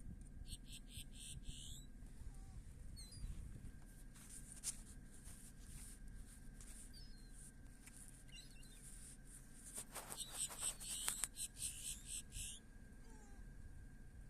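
Faint gull calls now and then, with several bursts of rustling noise, the loudest near the end.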